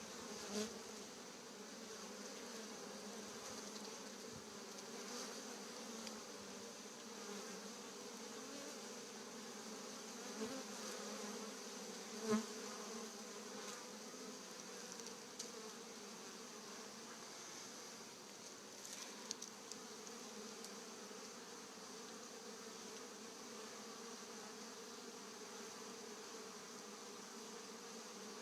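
Steady buzzing of a strong honeybee colony at the hive, many bees humming together, with a few brief taps, the loudest about twelve seconds in.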